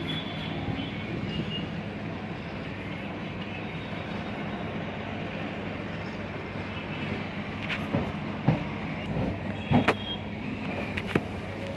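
Passenger train running on the rails: a steady rumble, with a few sharp knocks near the end.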